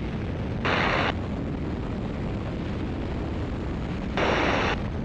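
Great Lakes open-cockpit biplane's engine and propeller running steadily under power, a dull rumble through the cockpit microphone. Two short bursts of hiss come in, about a second in and again about four seconds in.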